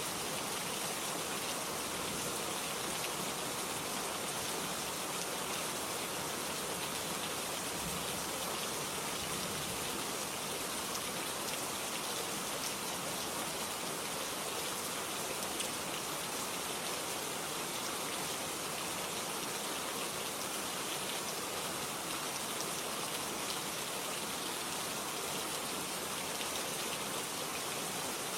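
Steady rain falling, an even hiss with scattered drop patter.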